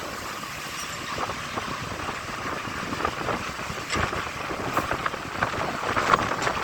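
Heavy diesel trucks running in a queue, a steady mix of engine and traffic noise with a few short knocks and clatters in the second half.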